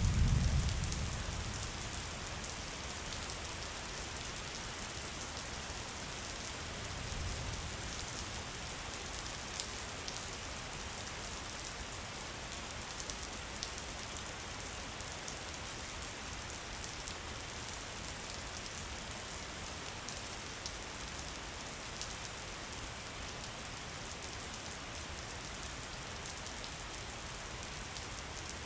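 Steady rain falling, with many fine drop ticks. A low rumble fades out over the first two seconds, and a fainter one comes about seven seconds in.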